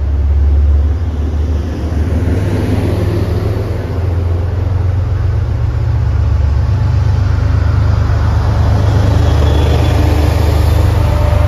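MBTA commuter rail coaches rolling past at close range: a steady deep rumble of steel wheels on the rails. Near the end the push-pull train's diesel locomotive, an MBTA HSP-46, draws near at the rear, and a faint engine hum rises over the rumble.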